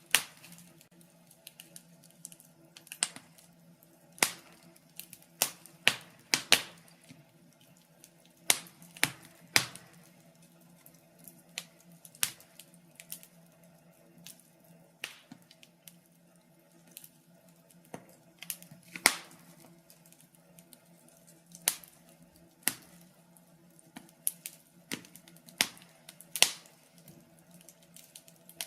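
Wood logs burning in a fireplace, crackling with irregular sharp pops and snaps, several a second at times and sometimes a second or more apart. A faint steady hum runs underneath.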